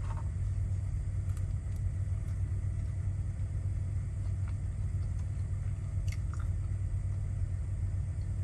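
Steady low rumble of an idling semi truck engine heard from inside the cab, with faint chewing over it.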